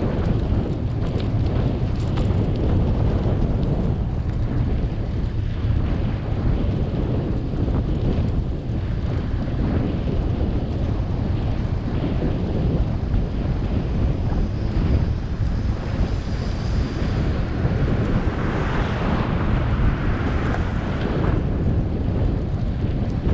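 Wind rumbling and buffeting on the microphone of a camera riding along on a moving bicycle. A brighter hiss swells for about three seconds near the end.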